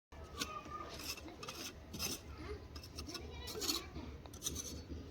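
Irregular scraping and rubbing with light clinks and short taps.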